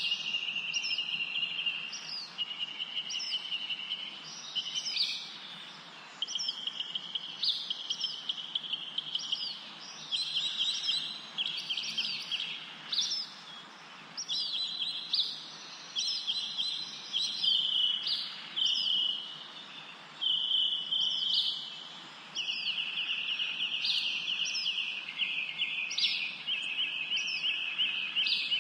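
Songbirds singing: rapid trills in phrases of one to two seconds with short gaps, overlaid by short high chirps repeating about once a second.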